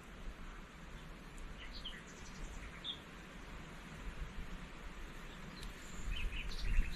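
Outdoor ambience with short, scattered bird chirps over a steady low background noise. Low thuds build near the end.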